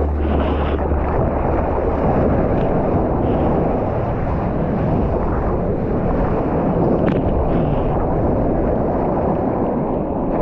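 Rushing ocean water and wind buffeting an action camera's microphone while surfing, a steady dense wash with a few small splashes.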